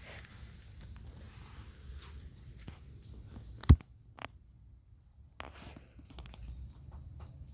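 Steady high-pitched insect chorus of crickets or katydids, with faint low rumble and small rustling clicks from handling or shuffling feet. One sharp knock about halfway through stands out above the rest.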